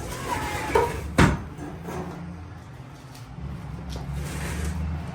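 Workshop handling noise: a light click, then one sharp heavy knock about a second in, followed by a low steady hum.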